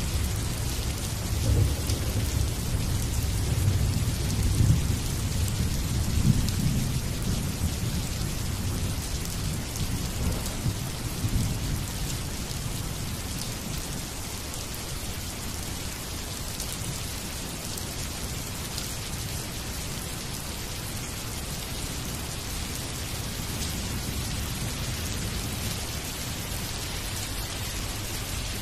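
Steady rain falling, with a low rumble of thunder through the first half that dies away about twelve seconds in.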